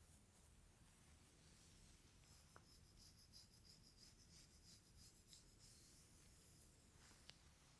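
Faint hair play: quick, light scratching strokes through hair, about four or five strokes a second, with a couple of tiny ticks.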